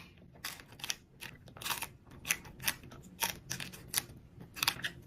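Close-miked eating: irregular crisp crunches and clicks of food being bitten and chewed, two or three a second.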